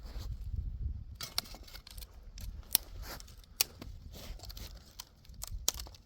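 A few irregular, sharp clicks or snips, like handling or cutting something by hand, over a steady low rumble.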